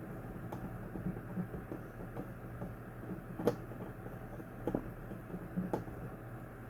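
Scattered light clicks and knocks from handling a box fan's parts, over a steady low hum.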